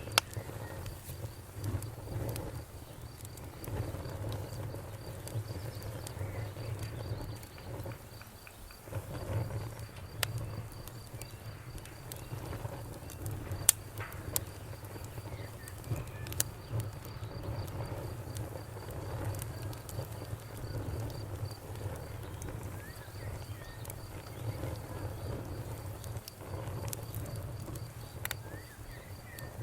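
A wood bonfire crackling, with scattered sharp pops (one loud pop about halfway through) over a low steady rumble of the flames. A cricket chirps in a fast, even, high-pitched pulse throughout, pausing briefly twice.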